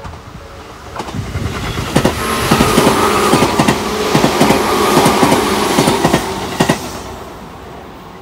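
Tobu 10000-series electric commuter train passing close by, its wheels clacking rapidly over rail joints over a steady hum. It builds from about a second in, is loudest in the middle, and fades away near the end.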